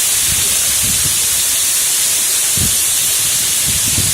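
Heavy rain pouring down in a steady, loud hiss, with irregular low thumps of drops striking the wet phone's microphone.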